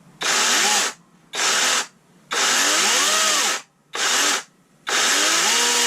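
Kobalt 24V brushless 12-inch chainsaw running with no load in about five short trigger pulls, the motor and chain whirring in bursts with short silences between. Within the longer pulls the pitch rises and falls as the variable-speed trigger is feathered.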